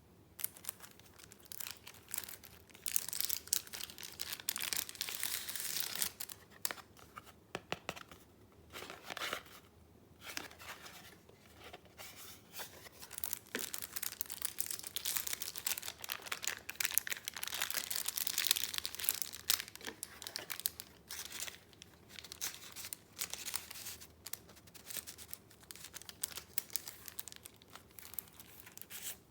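Paper being handled by hand: rustling, crinkling and tearing in uneven stretches, loudest a few seconds in and again a little past halfway.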